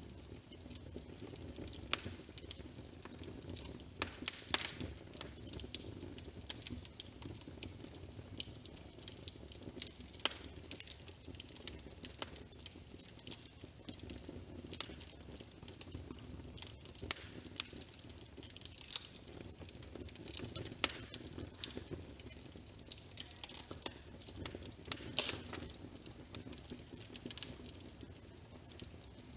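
Wood fire crackling, with irregular sharp pops and snaps over a low, steady murmur.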